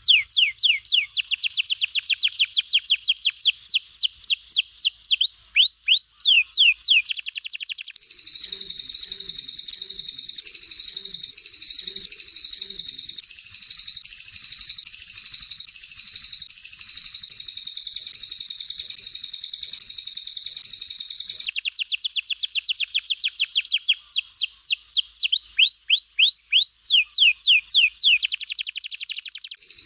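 Recorded songbird song of a canary and a cililin, in fast 'tembakan' bursts. A rapid series of sharply down-slurred whistled notes runs for about eight seconds. A dense, continuous high chattering trill follows for about thirteen seconds, and then the down-slurred series returns near the end.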